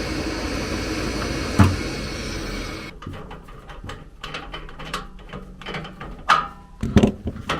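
Steady running noise from a gas furnace, with a click about one and a half seconds in. The noise cuts off abruptly about three seconds in, followed by scattered light clicks and knocks, a couple of them sharper, near the end.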